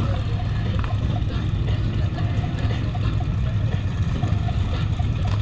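Suzuki SV650's V-twin engine running steadily, with road and wind noise, heard from a helmet camera.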